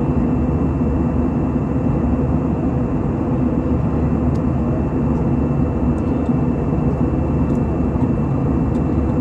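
Airliner cabin noise: a steady low rush of engine and air noise with a faint, thin high tone over it, unchanging throughout, with a couple of faint ticks.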